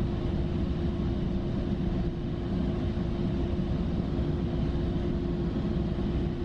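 Steady low rumble inside a Metrolink commuter train passenger car, with a constant hum tone over it.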